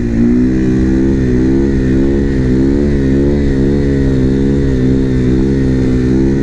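A 450 single-cylinder supermoto engine running under way at a near-steady engine speed, its pitch wavering slightly.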